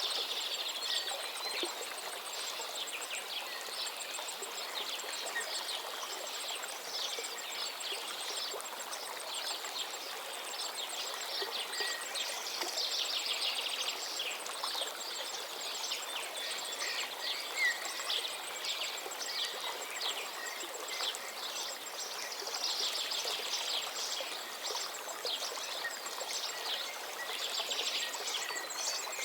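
Many small birds chirping and trilling over a steady rush of running stream water, with a faint fast ticking insect-like tone high above.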